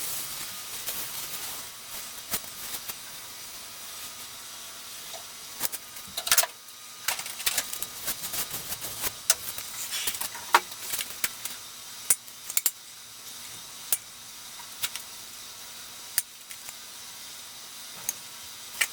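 Caulking gun being worked to run a bead of PL construction adhesive along a seam: irregular clicks and clacks over a steady hiss.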